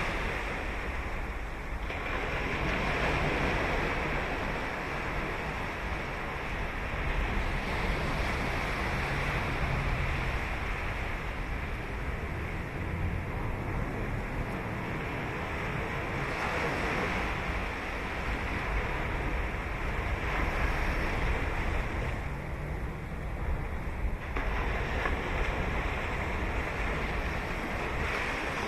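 Ocean surf breaking and washing up a sand beach, a continuous rush that swells and eases as successive waves come in.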